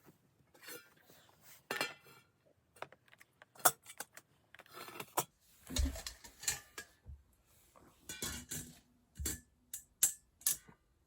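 Kitchen dishes and utensils handled: a spoon and containers clinking, knocking and scraping in short, irregular bursts, with several sharp clicks.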